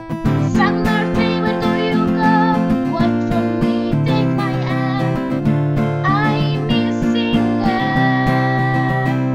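Music: strummed acoustic guitar chords with a voice singing a melody over them.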